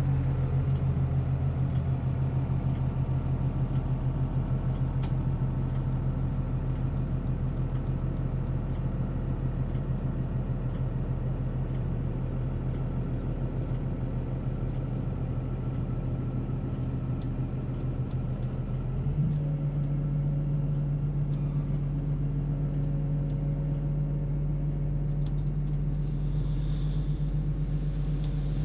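Diesel engine of a piece of heavy equipment running steadily under a low rumble. About two-thirds of the way through it picks up speed to a slightly higher, steady pitch.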